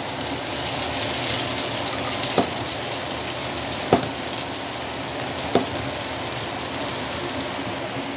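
Tiger prawns sizzling steadily in hot oil in a frying pan, with three sharp knocks about a second and a half apart.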